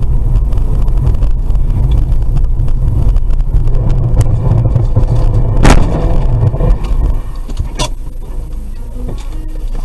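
Steady low rumble of a car driving, road and engine noise heard from inside the car, with a sharp knock a little past halfway and a fainter one about two seconds later; the rumble eases off about seven seconds in.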